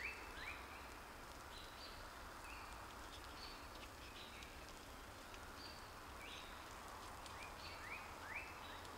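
Faint woodland ambience with a bird calling repeatedly in short, quick rising chirps and brief higher notes, coming in clusters.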